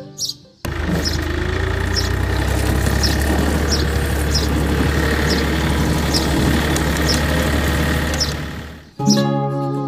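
A motor running steadily with a strong low hum. It starts suddenly about half a second in and stops abruptly near the end.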